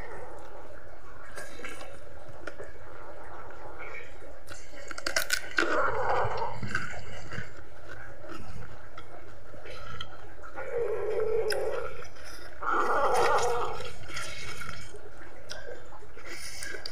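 Close-up chewing and mouth sounds of someone eating chili-coated chicken feet, in irregular bursts with a few sharp clicks, over a low steady hum.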